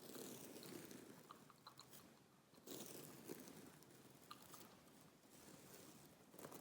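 Quiet close-miked gum chewing and mouth sounds, coming in stretches of a couple of seconds with small sharp clicks, broken by short pauses.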